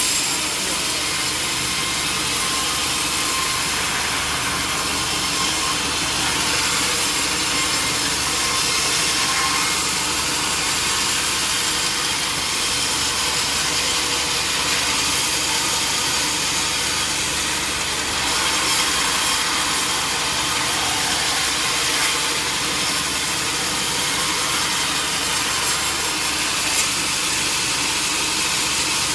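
Sawmill saw cutting lengthwise through a large durian stump, a steady, unbroken sawing noise.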